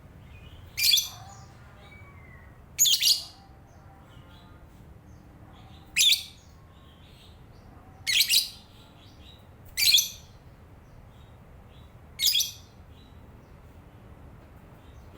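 Lovebird chattering, with six loud, shrill, short calls about two seconds apart and softer twittering between them.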